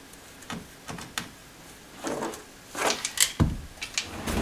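Carpet side trim strips in a car interior being pried up and pulled free: a few light clicks, then scraping and rattling, with a dull thump about three and a half seconds in.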